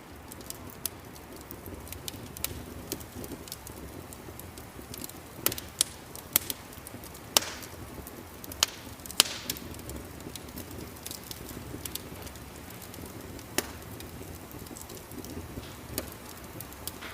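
Wood fire crackling in a fireplace: irregular sharp pops and snaps over a steady low rumble, with a cluster of the loudest pops near the middle.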